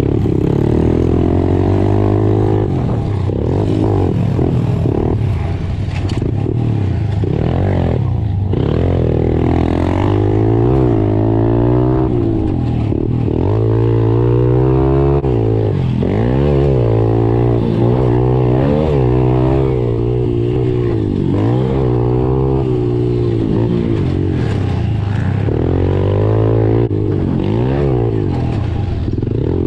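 Pit bike engine revving up and down over and over, its pitch climbing and dropping every second or two, as when ridden hard around a track.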